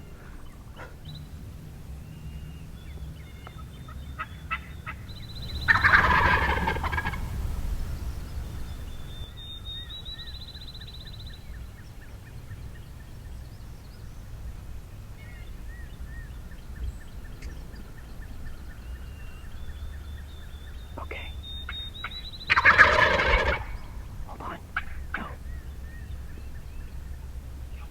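Eastern wild turkey gobblers gobbling at close range: two loud, rattling gobbles, each about a second long and some seventeen seconds apart.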